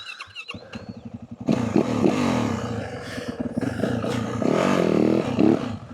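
Yamaha WR450F dirt bike's single-cylinder four-stroke engine, ticking over quietly at first and then revved hard from about a second and a half in, its pitch rising and falling as the throttle is worked. A few short high squeaks come in the first second.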